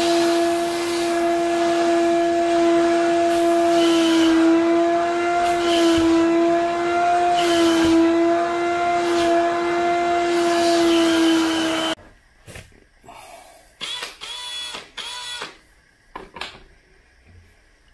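Wet vacuum cleaner running with a steady, high whine over a rushing hiss, which stops abruptly about twelve seconds in; a few quiet clicks and knocks follow.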